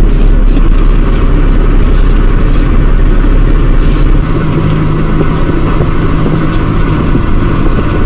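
Loud, steady engine and road rumble of a vehicle driving, recorded from on board; the pitch and low rumble change about four seconds in.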